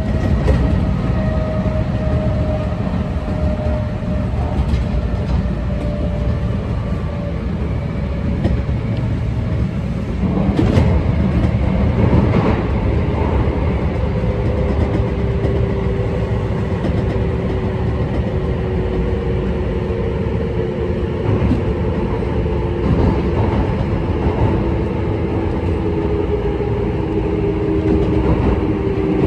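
Kintetsu electric train running, heard from on board at the front: a steady rumble of wheels on rail with the traction motors' whine sliding slowly in pitch. A few rail-joint clacks come about ten to thirteen seconds in.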